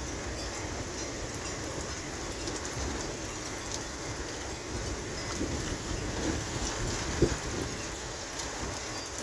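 Steady thunderstorm rain falling, with scattered drops ticking and one sharper tap about seven seconds in.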